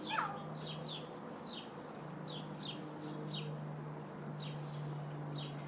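Small birds chirping: short, high, downward-sliding chirps, irregularly spaced a few times a second, over a steady low hum.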